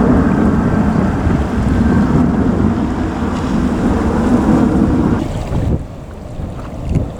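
Jet engine roar of a departing Airbus A330-300 climbing away, a loud low rumble with wind on the microphone. About five seconds in it cuts off to a much quieter low rumble.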